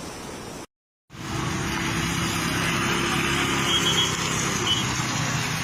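A brief steady rush of flood-water noise cuts off, and after a short gap a motor vehicle's engine runs steadily over a noisy background, with a couple of short high beeps a few seconds in.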